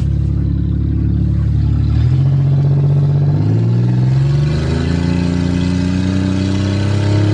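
Car engine running under way, its revs climbing steadily from about three and a half seconds in as the car accelerates.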